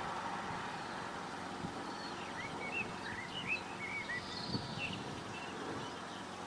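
Steady outdoor background noise, with a small bird chirping a quick run of short calls from about two to five seconds in.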